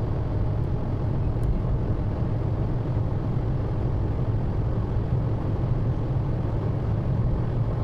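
Steady low rumble of road and engine noise inside a moving car's cabin, driving through a long road tunnel.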